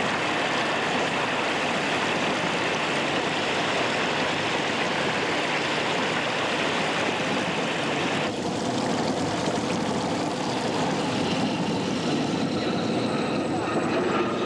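Steady engine noise, unbroken throughout, changing in tone about eight seconds in.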